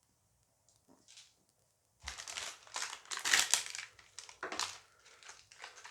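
A booster-pack wrapper crinkling as it is handled and opened, starting about two seconds in with a run of irregular crackles.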